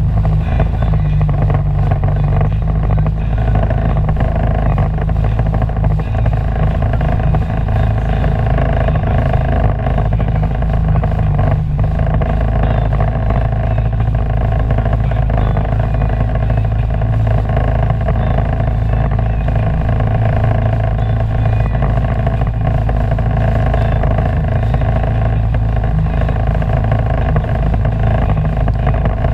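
Sea-Doo personal watercraft engine running steadily under way, its pitch holding even.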